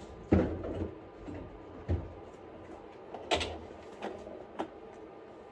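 Kitchen clatter of dishes and cupboard doors being handled: about five separate knocks and clunks over a few seconds, the first the loudest.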